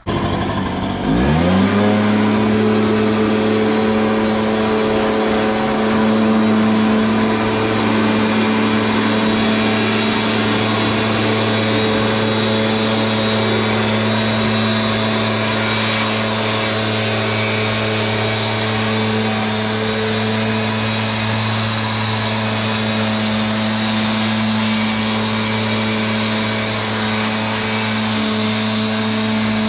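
Leaf blower running up to speed about a second in, then running steadily at full power.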